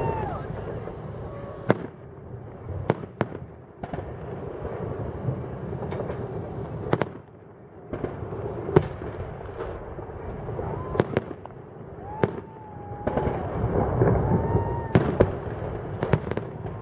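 Festive fireworks display: aerial shells bursting in a long, irregular string of sharp bangs over a continuous low rumble from the barrage.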